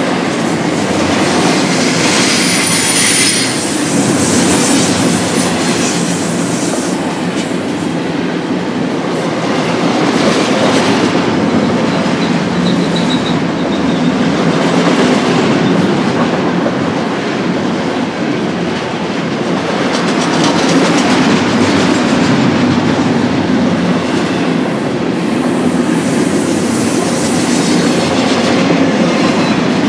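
BNSF intermodal stack train rolling past: steady wheel-on-rail noise with clickety-clack over the rail joints, and a brief high wheel squeal about two seconds in.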